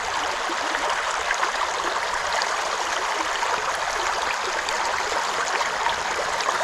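Steady rush and babble of a small trout stream flowing over rocks.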